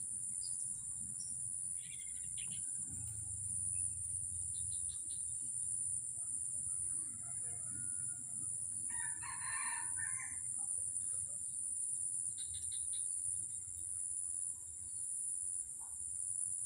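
Scattered bird chirps over a steady high-pitched insect drone, with one rooster crow about nine seconds in.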